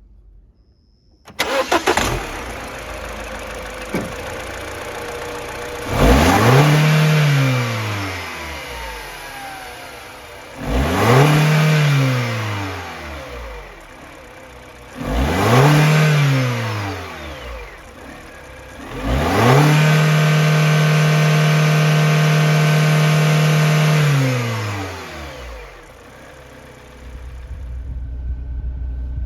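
2011 MINI Cooper R56's 1.6-litre N16 four-cylinder petrol engine starting up about a second in and settling to idle. It is then revved three times in short blips that rise and fall, and after that held at a steady higher speed for about four seconds before dropping back to idle; another rev begins right at the end.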